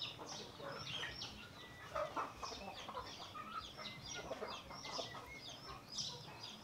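Birds chirping and clucking in the background, short high calls repeating several times a second, with a few short clicks around two seconds in.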